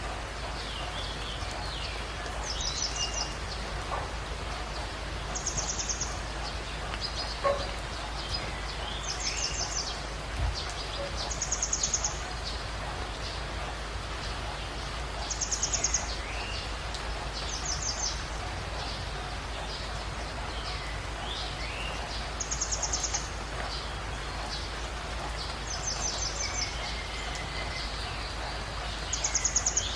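Wild birds calling over a steady hiss. A short, high, rapid trill repeats about every two to three seconds, with lower whistled slides between the trills.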